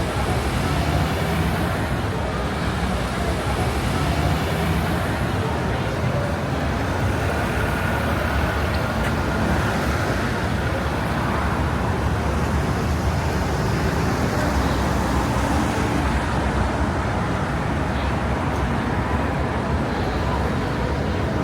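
Steady city street traffic: motor vehicles running and passing, a continuous rumble with passers-by talking in the mix.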